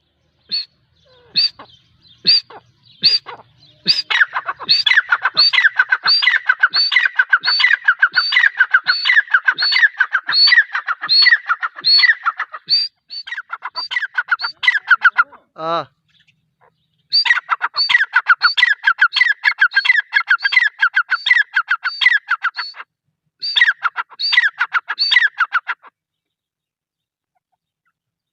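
Gray francolin (teetar) calling: a few spaced notes at first, then long runs of rapid repeated calls, about two a second, broken by short pauses. A single sharp falling glide sounds near the middle.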